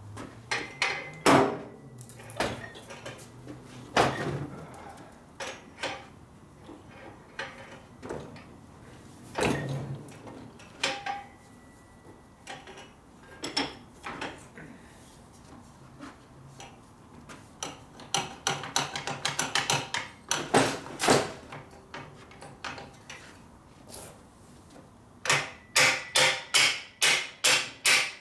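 Hammer blows on a steel tool driven into a motorcycle exhaust pipe held in a vise, stretching the pipe's end: scattered single knocks and clanks, then near the end a steady run of hard strikes, about three a second.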